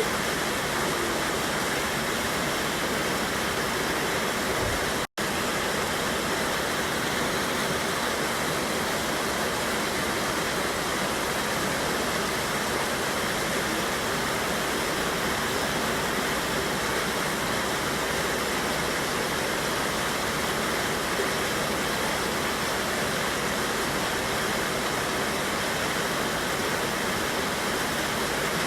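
Mountain river water rushing over a small waterfall and rocks: a steady, even rush of water. It cuts out completely for an instant about five seconds in.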